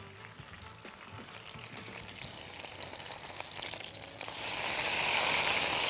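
Stuffed chicken roll frying in oil in a pan: faint crackling at first, then loud, steady sizzling from about four seconds in.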